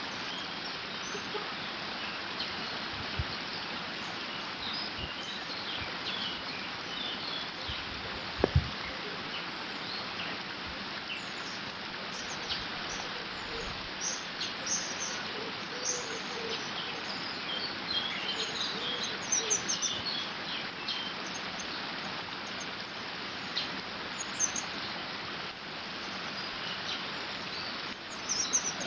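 Water running steadily through a beaver dam, a constant rushing hiss, with birds chirping and singing over it, more often in the second half. A brief low thump about a third of the way in.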